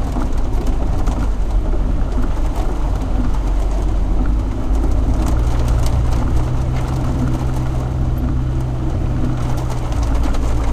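Jeep TJ engine running at low speed on a rough forest track, a low drone that settles into an even hum about halfway through, with tyre noise and scattered small knocks.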